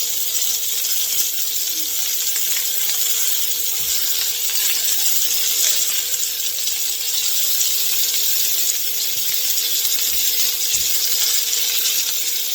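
Bacon-wrapped chicken pieces sizzling steadily in a hot pan, their bacon searing to a crisp.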